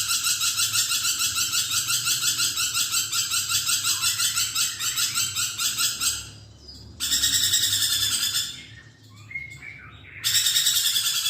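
Nuri perkici lorikeet chattering loudly in a rapid, shrill, evenly repeated string of calls, several notes a second. It breaks off about six seconds in, then comes back in two shorter bursts with a few softer notes between them.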